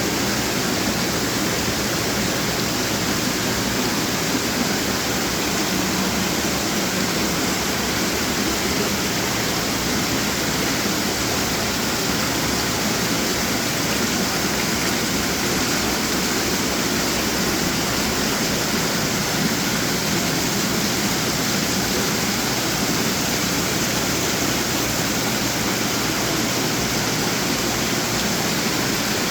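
Running water from many garden fountains splashing and trickling together into a steady rush.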